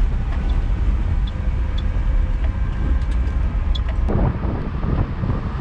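Stripped-down 1995 Chevy Silverado pickup driving off road, its engine giving a steady low rumble. About four seconds in, a rougher rushing noise joins it.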